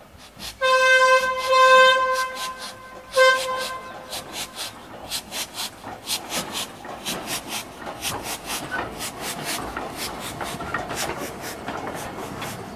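A narrow-gauge shunting locomotive gives a warning toot, one long blast and then a short one. After it, the wheels of the slowly shunted train of a steam tank engine, a wagon and a diesel click over the rail joints and points in a steady run.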